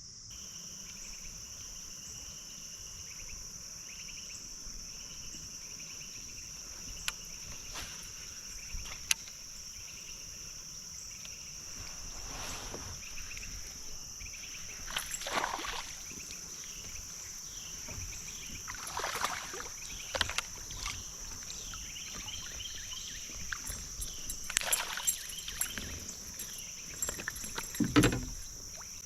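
A steady high insect chorus of crickets trilling on a creek, with a few water splashes and small knocks from a kayak at intervals.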